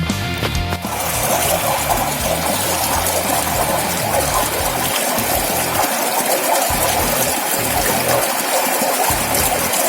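Steady rush of water flowing, replacing rock music that cuts off about a second in.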